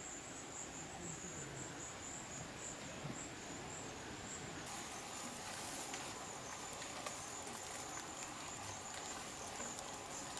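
Insect chirring: a high, thin trill, pulsing quickly for the first four or five seconds and then steadier, over a faint background hiss.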